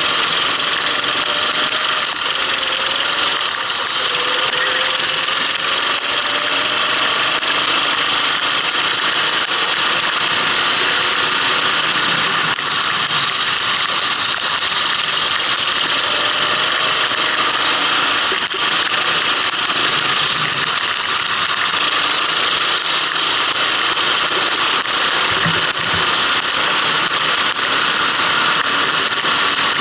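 Go-kart engine running on a wet track, heard onboard under a steady heavy hiss; its pitch rises in places as the kart accelerates.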